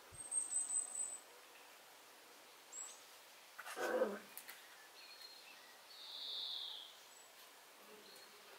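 Wild birds calling: a quick run of high chirps in the first second and a longer, lower whistled note about six seconds in. A short, louder noise breaks in about four seconds in.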